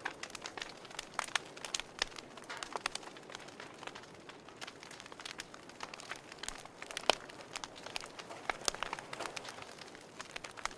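Wood fire burning in a fireplace: irregular sharp crackles and snaps over a soft steady hiss, the loudest snap about seven seconds in.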